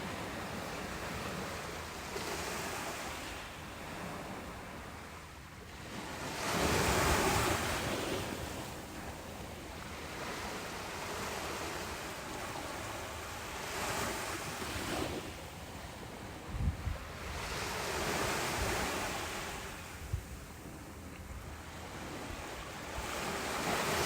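Ocean waves breaking and washing up a beach, surging and fading every few seconds, the biggest wave about a quarter of the way in. Two brief low thumps come in the second half.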